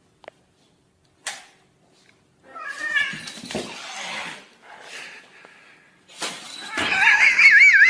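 A cat meowing, then yowling loudly in a wavering, warbling voice near the end.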